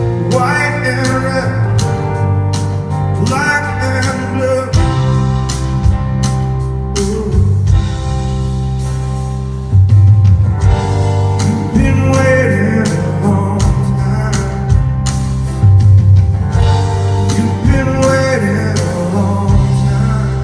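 Rock band playing live between sung lines: held bass notes under guitar, with steady drum hits.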